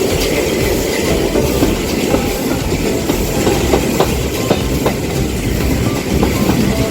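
A train running along the track: a steady low rumble with a few sharp wheel clicks over the rails.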